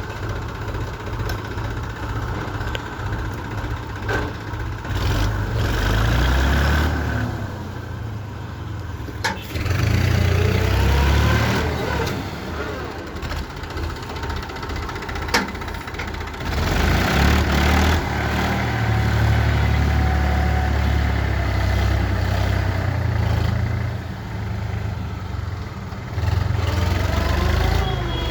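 Tractor engine running hard under load, surging louder and quieter in long swells as the stuck tractor strains to pull free. Two sharp knocks cut through it, about nine and fifteen seconds in.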